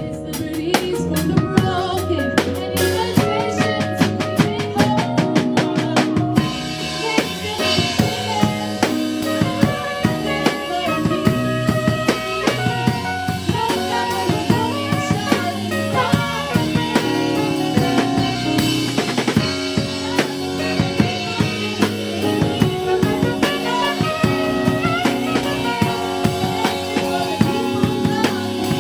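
Live gospel band music driven by a drum kit with kick, snare and rimshots. The first few seconds are mostly drums, then sustained keyboard and bass parts fill in over the beat from about six seconds in.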